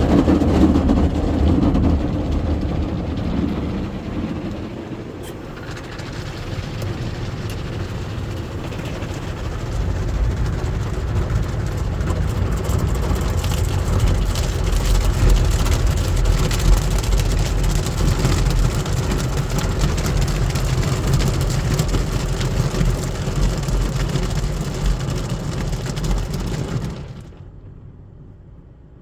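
Ryko SoftGloss Maxx automatic car wash working over the car, heard from inside the car: a loud, steady rushing of water and wash equipment over a deep rumble. It drops off suddenly near the end.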